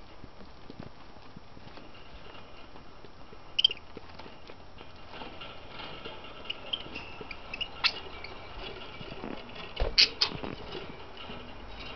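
Budgies feeding, with light irregular pecking, taps and a few sharp clicks of beaks on seed and cage, over faint soft chirps.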